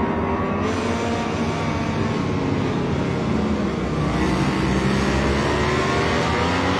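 MotoGP racing motorcycle engine at high revs, its pitch dropping over the first few seconds and then climbing again as it accelerates.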